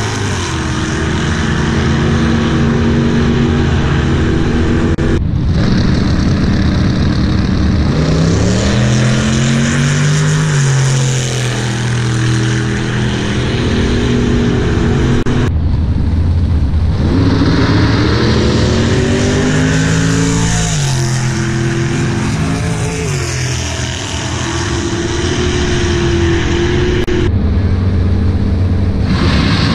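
Drag-race cars' engines revving and accelerating hard down the strip, the pitch climbing several times as they pull away.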